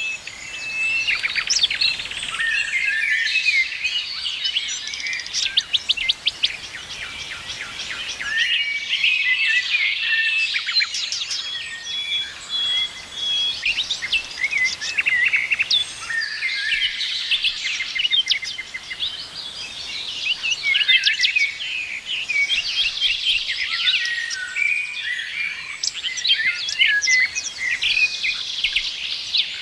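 Several songbirds singing and chirping at once in a dense chorus of quick trills, short whistled notes and chirps, with no pause.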